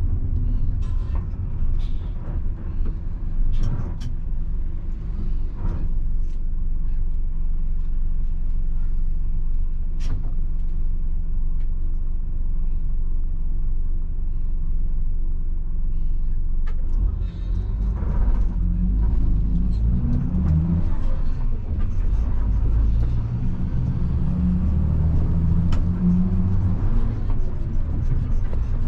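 1990 Mitsubishi Fuso bus's 7.5-litre diesel engine running while the bus is driven: a steady drone at first, then louder with its pitch rising and shifting from a little past halfway as the engine pulls harder through the gears.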